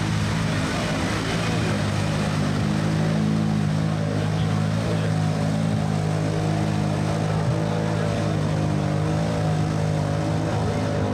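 ATV engine running at a steady pitch, holding a fairly constant rev.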